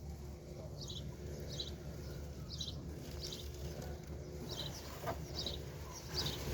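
A bird chirping over and over, short high calls that drop slightly in pitch, about one a second, over a steady low background rumble.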